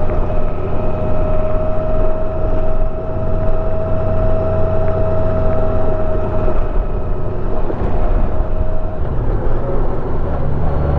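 Honda Gold Wing Tour's flat-six engine running at road speed under steady wind rush, with a thin steady whine over it. About nine seconds in the whine fades and the engine note shifts.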